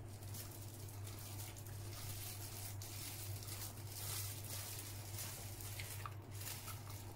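Close-up mouth sounds of someone chewing a soft cream bun, with a steady low hum underneath. Near the end, a thin plastic bag rustles as it is handled.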